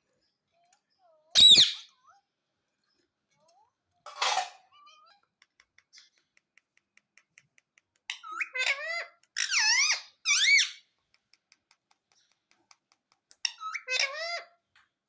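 Pet parrot making squeaky whistled calls: a sharp call about a second and a half in, a short rasp around four seconds, then a run of warbling squeaks with swooping pitch from about eight to eleven seconds, and another short run near the end.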